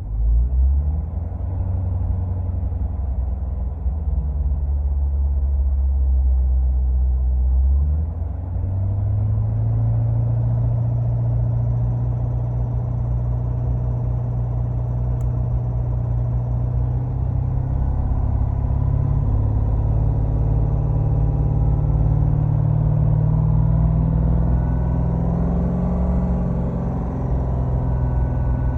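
Corvette Grand Sport's 6.2-litre LT1 V8 and exhaust heard from inside the closed cabin, pulling at low RPM, a change about 8 seconds in, then slowly climbing in pitch. Under it, a rattle that shows up at low RPM (around 1,700–2,300 RPM) and is partly covered by engine and exhaust as revs rise toward 2,800.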